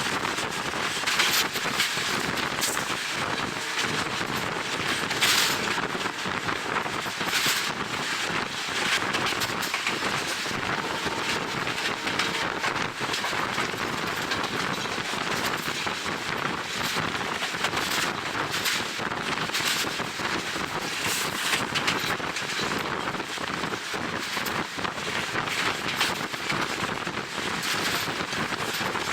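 Wind buffeting the camera microphone at the window of a moving passenger train, over the train's running noise: a steady rushing with frequent brief gusts.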